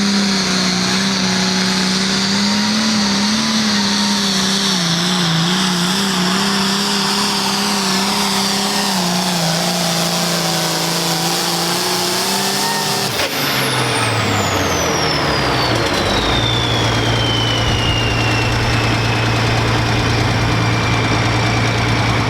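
Turbocharged International pulling tractor's engine running hard at high revs for about 13 seconds, then dropping to a lower steady speed as the pull ends, while the turbo's high whine winds down in a long falling glide.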